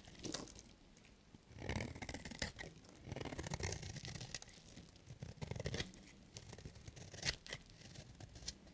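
A knife cutting through bars of soap in a series of scraping, crackling strokes, with a sharp snap about seven seconds in.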